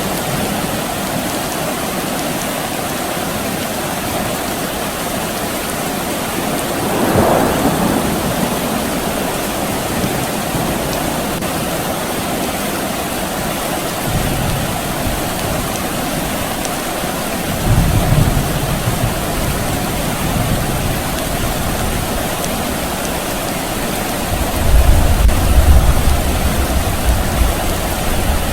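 Steady rain falling, with low rumbles of distant thunder: one swells about two-thirds of the way through and the loudest comes near the end.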